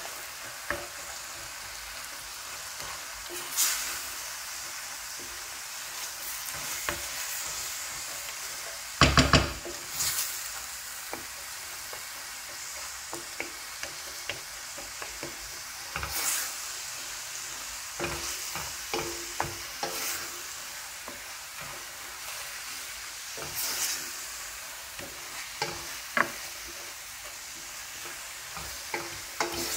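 Food frying in a pan with freshly added garlic, a steady sizzle, while a spoon stirs and scrapes, knocking against the pan now and then. About nine seconds in come three loud knocks close together.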